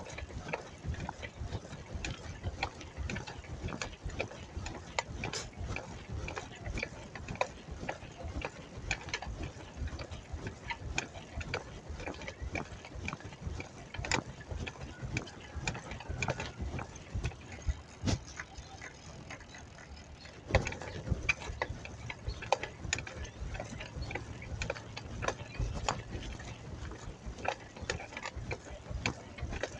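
Bicycle drivetrain clicking and rattling while riding: a dense run of small ratcheting clicks from the freewheel and chain. It eases off for a couple of seconds about two-thirds of the way in, then picks up again.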